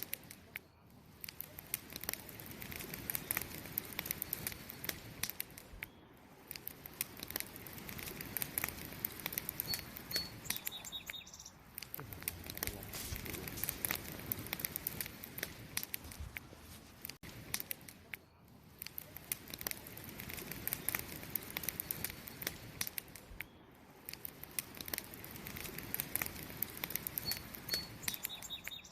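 Wood fire crackling, with dense sharp snaps and pops over a soft hiss that swells and fades every few seconds. A short high chirp comes about ten seconds in and again near the end.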